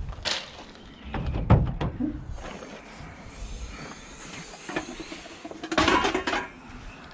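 A few knocks and one heavy thud, then a scraping stretch, then a rattling clatter near the end: scrap metal and van doors being handled.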